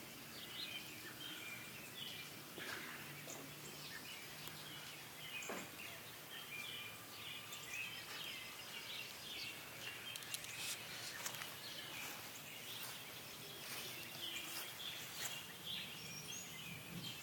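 Quiet outdoor ambience with faint, scattered bird chirps and a few soft clicks.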